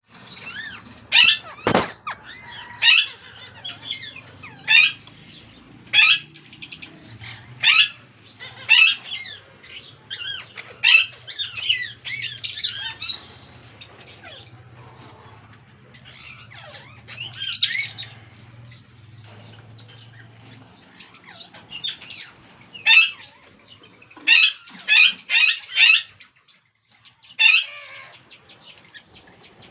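Ringneck parrots giving loud, harsh screeching calls, one every second or two, with a quieter stretch in the middle and a quick cluster of calls near the end.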